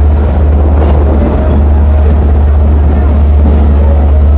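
Steady, loud low rumble of a diesel train's engine running as it moves slowly over a level crossing.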